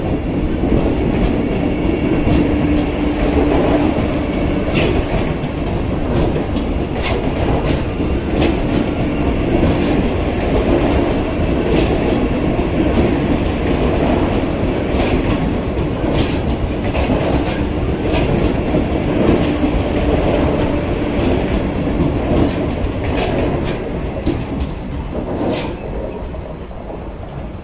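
Vande Bharat Express electric multiple-unit train rolling slowly past as it departs: a steady rumble of wheels on rail, broken by sharp clacks every second or two as the wheels cross the track. The sound fades near the end as the last car goes by.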